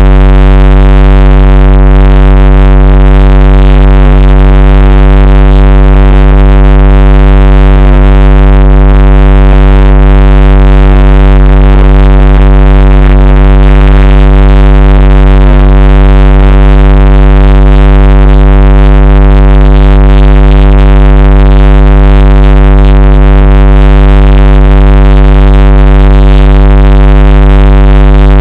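A very loud, steady electronic drone: one deep held tone with many overtones, unchanging throughout.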